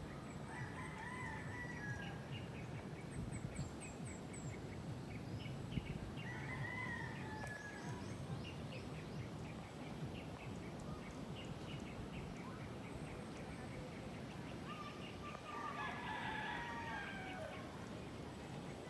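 A rooster crowing three times, each crow a long bending call, while small birds keep up short repeated chirps over a steady outdoor hiss.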